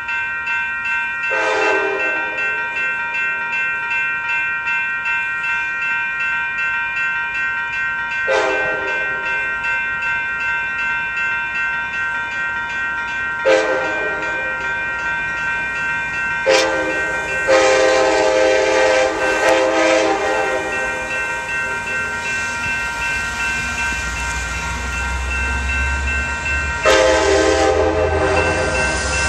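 Locomotive air horn sounding a run of blasts, three short ones spread apart, then a long drawn-out sounding and another long blast near the end, over steady ringing of grade-crossing bells. A diesel locomotive's engine rumble rises in the last few seconds as the train draws close.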